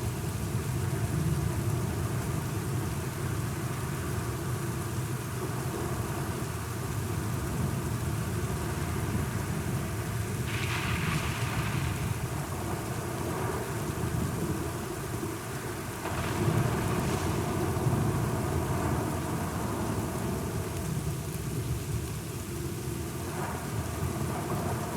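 Thunderstorm recording: steady rain with low rolling thunder underneath, the rumble swelling louder about two-thirds of the way through.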